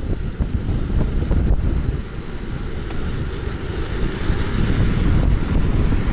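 Strong wind buffeting the microphone of a moving bicycle rider heading into a headwind, a dense, uneven low rumble.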